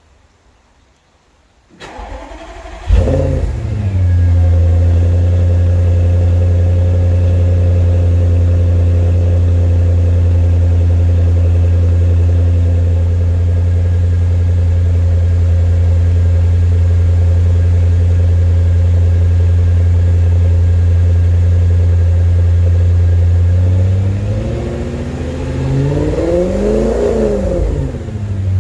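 Audi S6 exhaust on a cold start. The starter cranks briefly about two seconds in, and the engine catches with a loud flare, then settles into a steady idle. Near the end the revs rise and fall once before it drops back to idle.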